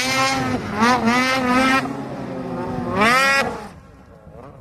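Snowmobile engine revving hard, its pitch rising and falling several times. A last sharp rev comes about three seconds in, then the engine drops away quieter.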